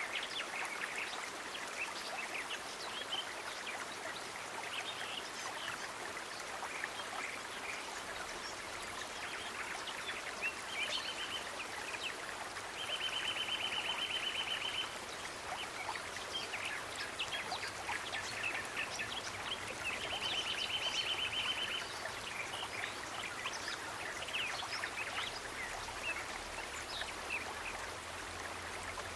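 Steady rush of running stream water, with many short high chirps over it. A fast, high, evenly pulsed trill of about two seconds comes in several times.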